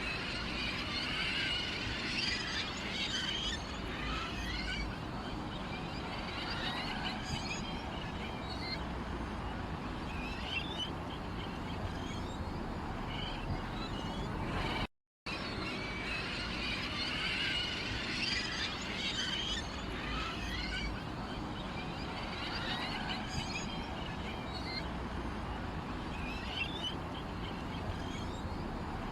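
Small songbirds chirping and trilling in a dense chorus. A short recording is looped, cutting out briefly about fifteen seconds in before the same chorus starts again.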